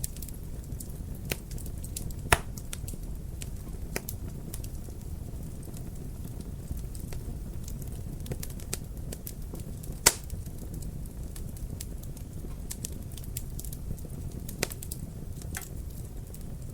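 Wood fire in a fireplace crackling over a steady low hiss of flame, with frequent small sharp pops and two much louder snaps, one a couple of seconds in and one about midway.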